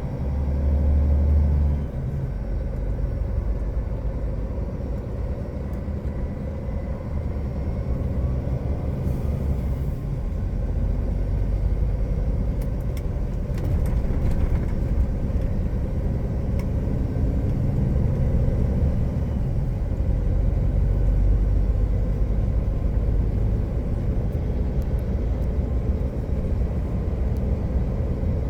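Heavy truck's diesel engine running under way with road noise: a steady low rumble that is louder for the first two seconds, drops off suddenly, then swells gently again later.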